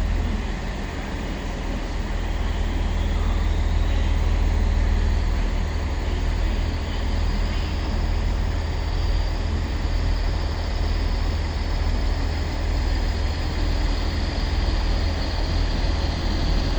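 A pair of English Electric Class 20 diesel locomotives running, with a steady deep engine rumble. A high whistle rises in pitch about three seconds in and then holds.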